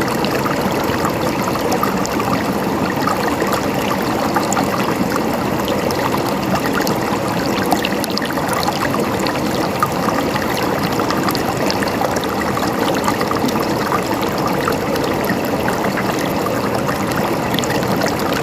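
Shallow stream of water running steadily, with a continuous gurgling trickle full of small splashes.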